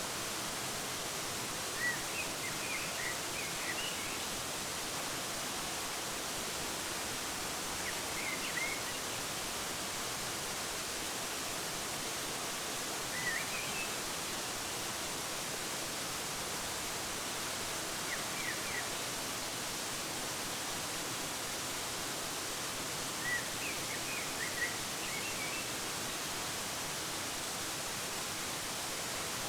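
Steady rush of a waterfall, with short bursts of bird chirps about every five seconds.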